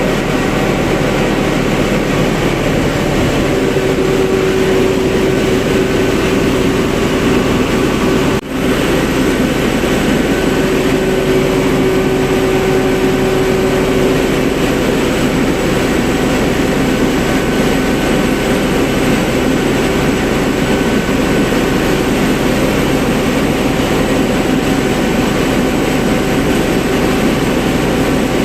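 Deutz BF8M1015 V8 turbo-diesel generator engine running steadily under a dense, even engine noise, with a steady tone that comes and goes during the first half. The sound drops out for an instant about eight seconds in.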